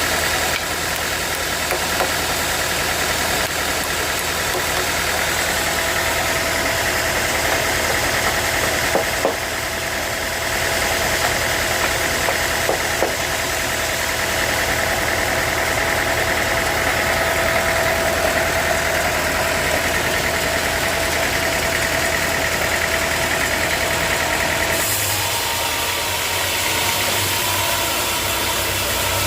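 Sawmill engine running steadily, with a higher whine over it that drops away about 25 seconds in.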